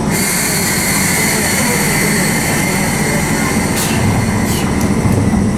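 103 series electric train: a loud hiss with a steady high whistle sets in abruptly, over the train's low hum.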